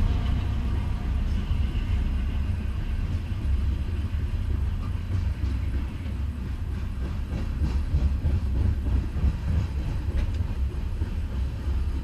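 Freight train of tank cars rolling past a grade crossing, a steady low rumble of wheels on rail with light clicking from the wheels crossing rail joints, heard from inside a stopped car.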